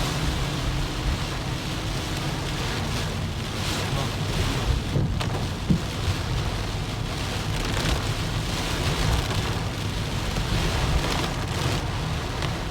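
Heavy typhoon rain and wind beating on a moving car, over a steady low rumble from the road and engine.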